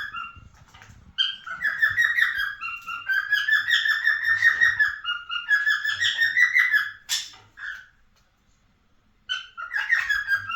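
Cockatiel singing: a long run of rapid, repeated whistled notes, then a sharp click, a pause of about a second and a half, and the song starting again near the end.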